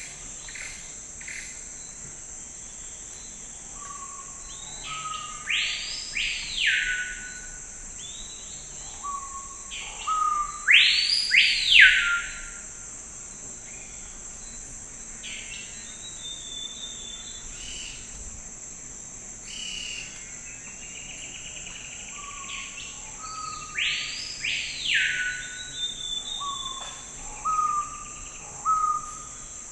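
Forest ambience: a steady, high insect drone with a songbird singing several phrases of loud, sweeping arched notes over it. The song comes in three bouts, loudest about a third of the way in and again in the last few seconds.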